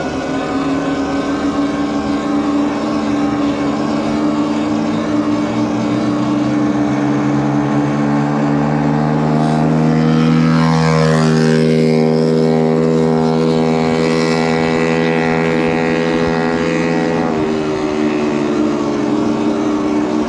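Electric motorbike's motor whining under throttle over wind rush, its pitch slowly climbing as it gathers speed. A second whine sweeps down and back up about halfway through, and the pitch drops about three seconds before the end as the throttle eases.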